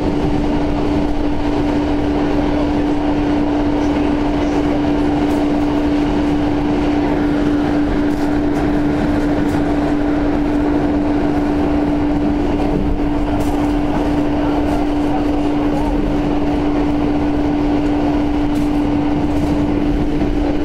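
Electric passenger train running at a steady speed, heard from inside the carriage: an even rolling noise from the wheels on the track, with a steady hum.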